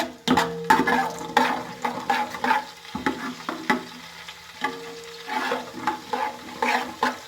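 Whole fennel seeds, cloves and cardamom frying in hot ghee in a pot, with a spoon repeatedly scraping and knocking against the pot as they are stirred.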